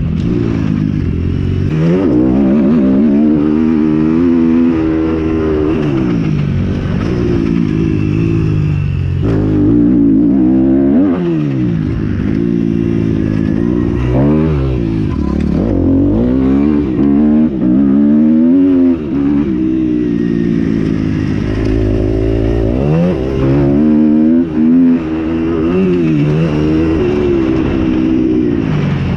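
Several motocross motorcycles racing, their engines revving up and down over and over, with the rises and falls of different bikes overlapping.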